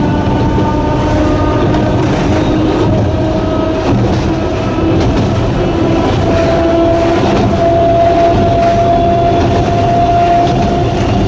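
Narrow-gauge electric train running, its nose-suspended traction motors whining over a steady rumble; the whine holds, then rises slowly in pitch from about halfway through.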